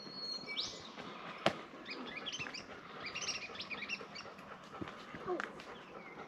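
Small birds calling: a held high whistle and a quick rising note, then a run of rapid high chirps and twitters a couple of seconds in. A sharp click about a second and a half in.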